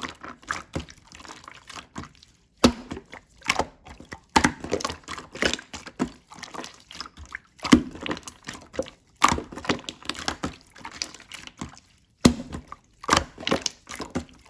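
Slime being squished and pressed by hand, giving irregular wet clicks and pops, with brief pauses about two seconds in and near twelve seconds.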